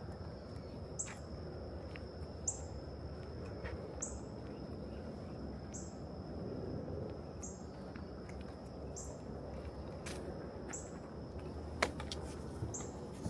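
A bird repeating a short high chirp about once a second, over a steady low rumble of distant traffic and a thin, steady high tone.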